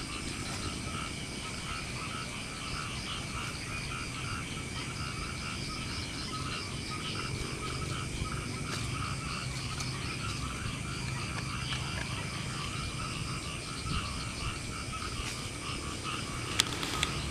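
A chorus of frogs calling at night, fast, even pulses repeating without a break. A single sharp click sounds near the end.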